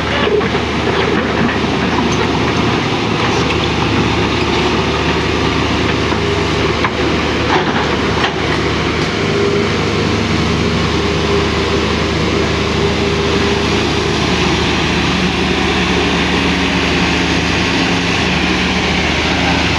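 Excavator's diesel engine running steadily under load, a loud low drone, with a couple of sharp clicks about seven and eight seconds in.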